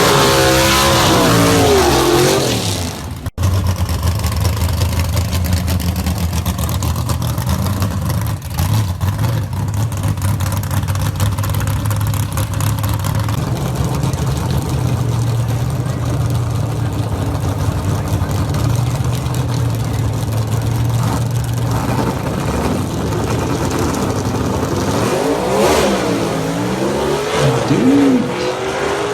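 Gasser drag car engines. First an engine revs up and down, then after an abrupt cut a deep engine idles steadily for a long stretch. Near the end the revving picks up again with rising and falling pitch.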